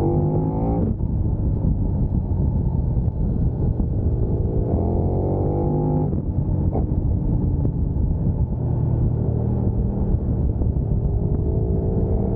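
Sport motorcycle engine under way, with the revs climbing and dropping sharply at gear changes about a second in and again around six seconds, and holding steadier in between.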